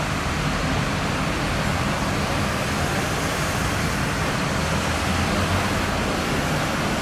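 Steady rumble of a running vehicle engine with street noise, holding an even level with no distinct knocks or breaks.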